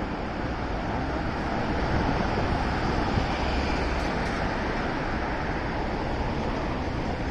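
Steady rush of wind and road noise from a moving motorcycle, swelling a little about two seconds in.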